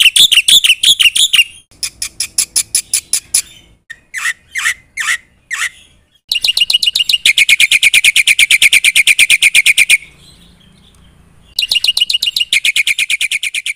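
Black-winged myna (jalak putih) singing in loud bursts of rapid, repeated chirps. A handful of slower single notes come about four seconds in, and there is a short break before the last fast run.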